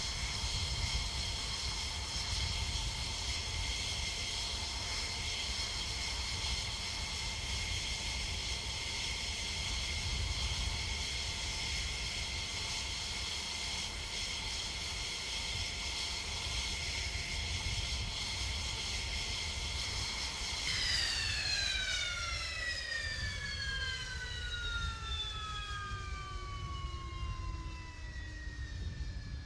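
F-16 jet engine whining steadily at idle over a low rumble; about two-thirds of the way through the whine starts to fall steadily in pitch as the engine is shut down and spools down.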